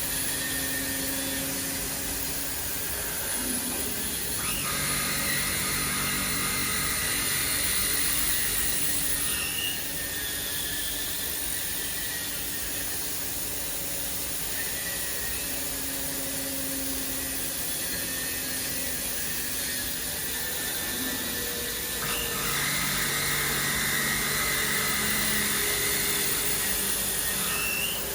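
CNC machining centre machining a steel H-beam: a steady whirring machine noise with two spells of a higher whine, starting suddenly about four seconds in and again about 22 seconds in, each lasting about five seconds and ending with a short rising tone.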